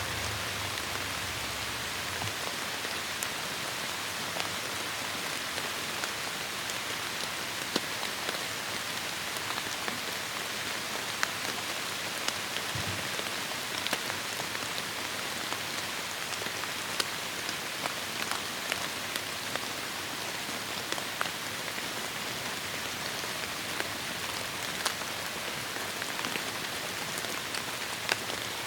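Heavy rain falling steadily on forest foliage, a dense even hiss dotted with sharp, scattered drips and splats.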